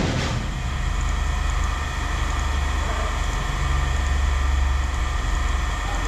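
A heavy engine running steadily with a deep rumble, swelling slightly about halfway through.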